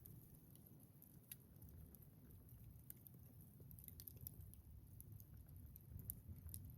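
Wood campfire crackling faintly, with scattered sharp pops of burning wood over a low, steady rumble.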